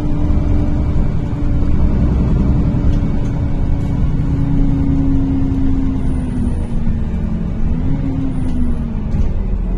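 A NefAZ-5299 city bus driving, heard from inside the cabin: steady engine and drivetrain rumble under a held whine that drops, rises again and falls in the second half.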